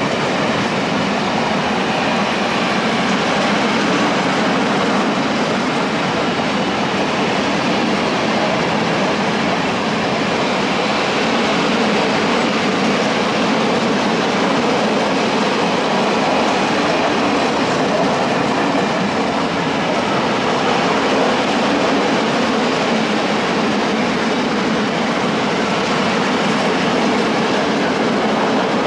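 Freight train of open coal wagons rolling past, a steady loud noise of wheels on rails that holds without a break.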